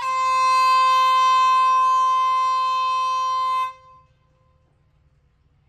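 Train air horn sounding one long steady blast that cuts off a little under four seconds in.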